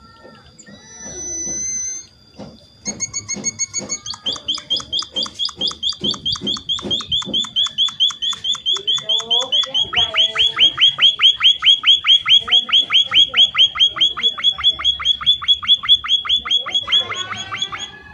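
A munia (emprit) calling a long run of rapid, evenly repeated sharp high notes, about five a second, growing louder about ten seconds in.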